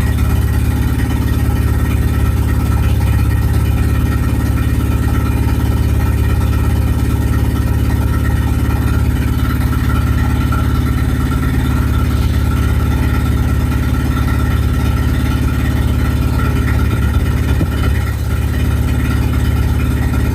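Nissan 200SX S12 Silvia engine running steadily at an even speed, with no revving.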